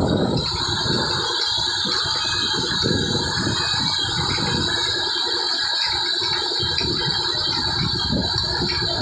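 Desi diesel engine running steadily with a rough mechanical clatter and a constant hiss. The low rumble eases a little about half a second in.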